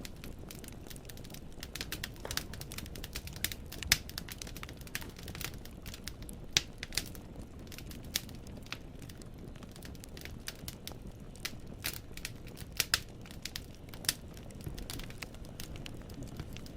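Wood fire in a fireplace crackling, logs snapping and popping at irregular intervals over a steady low rumble of the flames, with a few louder pops scattered through.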